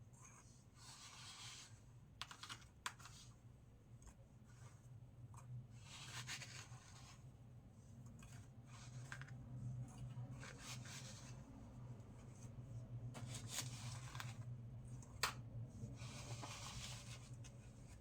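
Fresh baking soda being crunched, in irregular bursts of soft crackling with a few sharp snaps, over a low steady hum.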